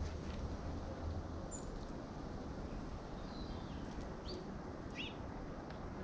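Small birds giving a few short, faint, high chirps, spaced about a second apart, over a steady low outdoor rumble.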